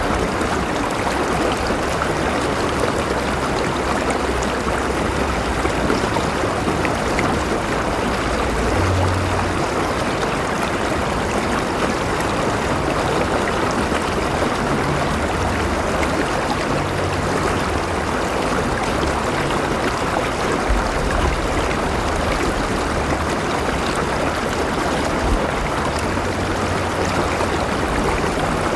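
River water flowing steadily over rocks: a continuous even rush with small gurgles, and a low rumble underneath that swells and fades.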